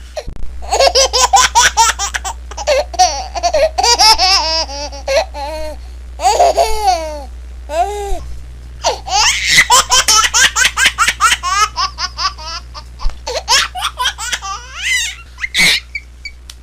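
Baby laughing hard in quick, high-pitched bursts, several bouts of giggling with short breaks between them.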